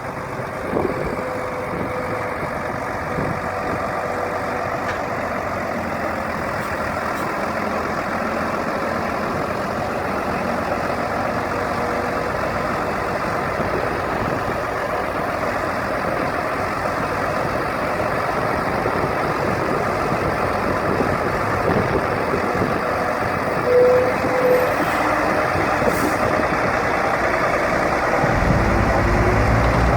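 Heavy gravel dump truck's diesel engine running steadily while the truck tips its load, slowly getting louder. Two short beeps sound about 24 seconds in.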